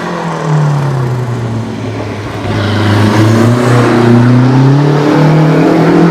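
Small-engined prototype race car accelerating hard on a slalom course: the engine revs up, drops briefly at gear changes and climbs again, loud and close.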